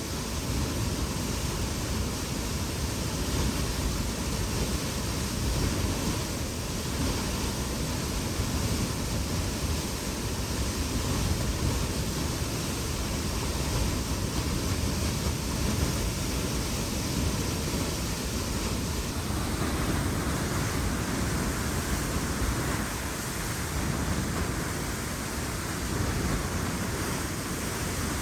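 Wind blowing across the microphone: a steady rushing noise with gusty low buffeting.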